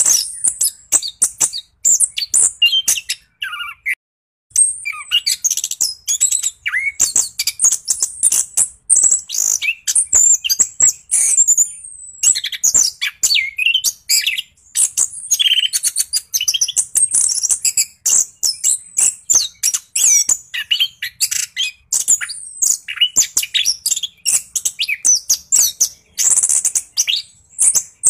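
Orange-headed thrush in full song, a fast, unbroken rolling run of varied chirps, whistles and trills, with one short pause about four seconds in.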